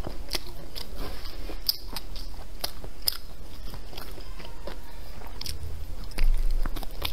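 Close-miked chewing and biting into chicken with rice: irregular wet mouth clicks and smacks. A dull low bump about six seconds in is the loudest moment.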